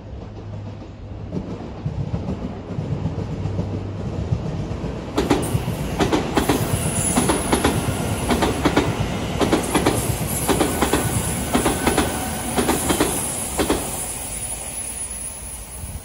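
Odakyu commuter electric train passing: a rumble builds for about five seconds, then the wheels clack over rail joints in steady pairs for about nine seconds, with a thin high whine above them, easing off near the end.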